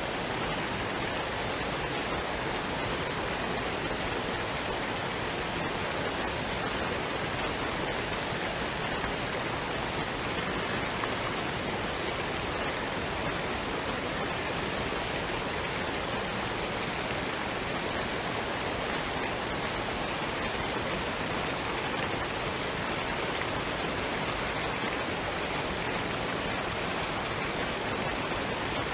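Waterfall and stream: running water as a steady, unchanging rush.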